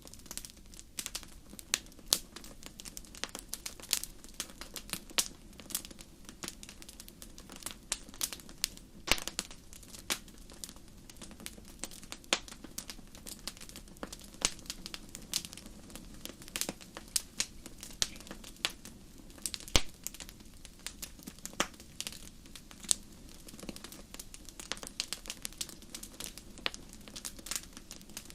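Wood fire in a fireplace crackling, with many irregular sharp pops and snaps over a steady low rush of flame.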